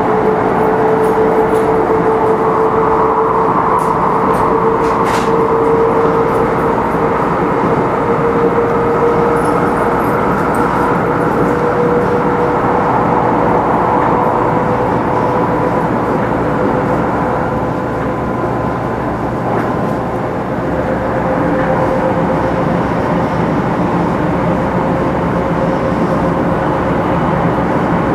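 500 series Shinkansen motor car 527-7707 running at speed: a steady rumble and rush of running noise with a single whine that climbs slowly in pitch throughout. The car has Toshiba GTO VVVF inverter traction control.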